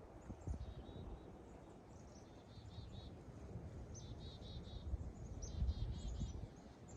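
Black-capped chickadees calling: three quick runs of four or five repeated notes, over a low rumble of wind on the microphone.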